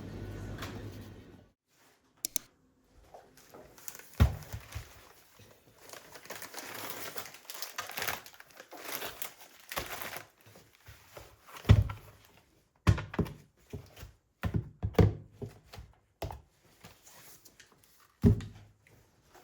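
Household handling sounds in a small room: several sharp thuds as objects are set down, and a stretch of crinkling like plastic or paper packaging being handled.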